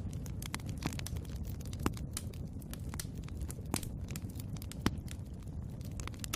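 Wood fire burning in a fireplace: a steady low rumble of flames with irregular sharp crackles and pops from the burning logs, a few louder snaps about two and five seconds in.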